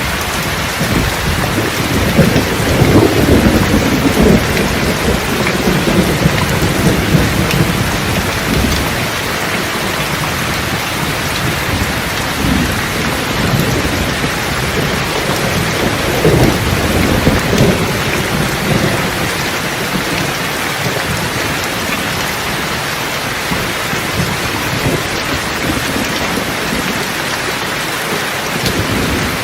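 Steady rain with rolling thunder: one long roll in the first several seconds and another about halfway through.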